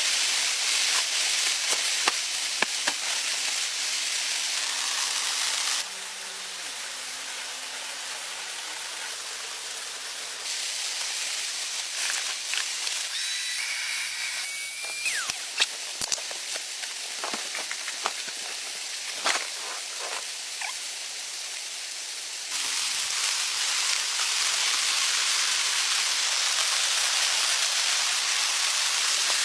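Heavy rain falling steadily, a dense hiss with scattered clicks and knocks of drops. The hiss drops in level about six seconds in and comes back up near the end.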